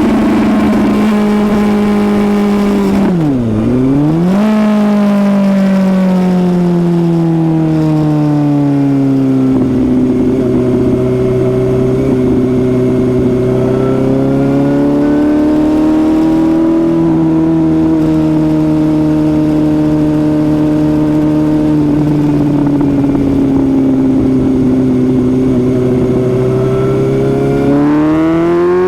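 Suzuki GSX-S750's inline-four engine running on the move: the revs drop sharply and pick up again a few seconds in, then fall slowly and hold fairly steady, rising again near the end as the bike accelerates.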